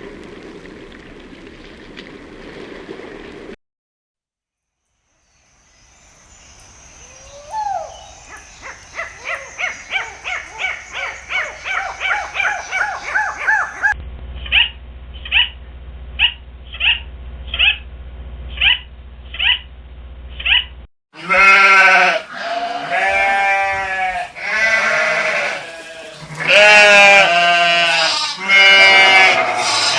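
A string of animal calls: a run of quick repeated calls, then short high calls evenly spaced, then from about two-thirds in loud, quavering bleats of livestock.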